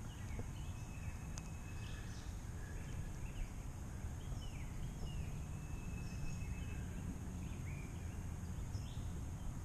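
Wild birds calling: scattered short chirps and a few thin, held whistles, over a steady low rumble.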